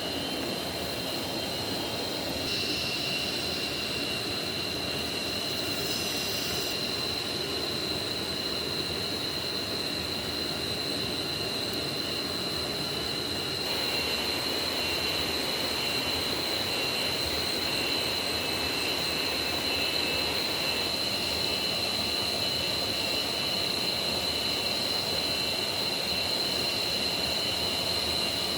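Steady rush of a rain-swollen forest stream, with a constant high whine on top. The sound shifts abruptly a few times, about two seconds in and again about halfway.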